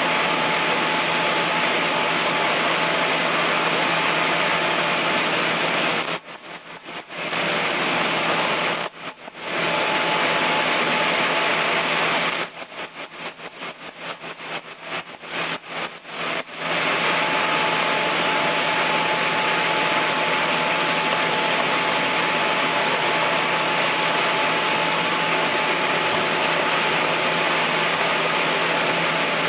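Chainsaw running at high speed while milling wood. It dips briefly twice, then stutters on and off quickly for a few seconds before running steadily again.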